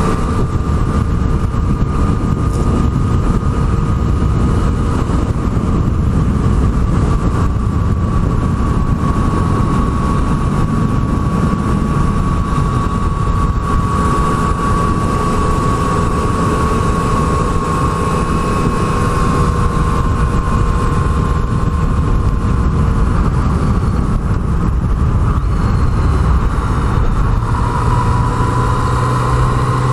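Yamaha MT-09 three-cylinder motorcycle engine running steadily at cruising speed under a heavy rush of riding wind, its pitch easing slowly and then dropping about three seconds before the end.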